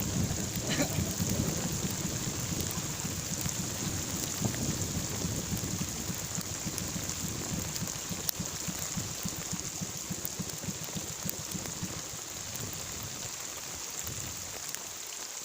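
Heavy rain falling steadily during a tropical thunderstorm, with a low rumble of thunder in the first few seconds that fades away. The rain eases slightly toward the end.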